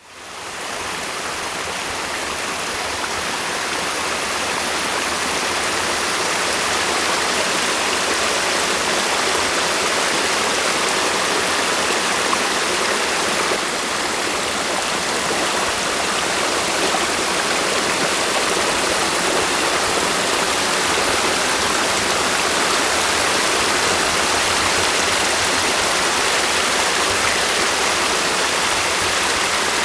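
Stream water rushing steadily, a dense, even splashing flow that fades in over the first second or so.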